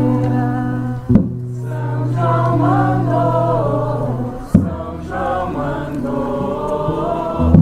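Group of voices singing a festa junina song over a steady low tone, with a loud thump about once every three seconds.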